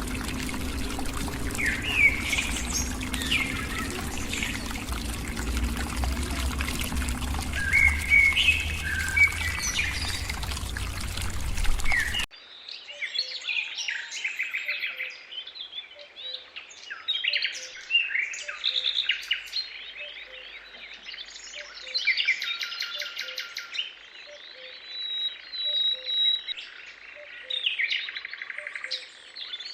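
A mix of forest birds calling and singing, with chirps and quick trills. For the first twelve seconds they sound over a broad rushing noise with a low rumble, which cuts off suddenly, leaving clearer birdsong with a faint low note repeated over and over.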